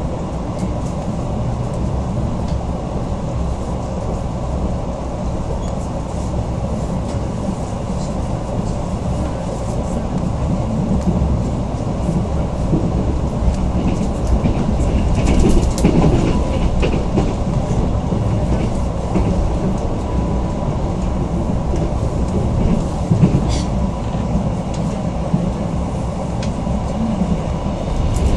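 Passenger train running on the rails, heard from inside the carriage: a steady low rumble of wheels on track with scattered clicks. There is a louder stretch of rattling and clicking about halfway through.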